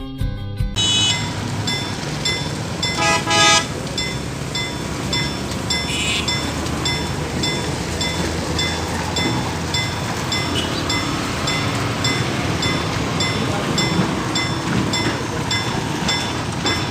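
Two short horn blasts about three seconds in, with a brief higher toot around six seconds, over a steady rushing noise of heavy rain and a running train.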